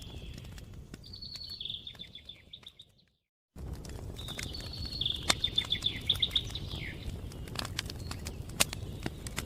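Wood fire crackling with scattered sharp pops over a low rumble, while a bird sings two trilled phrases of quick repeated notes. About three seconds in, the sound fades out to silence for half a second and then cuts back in abruptly.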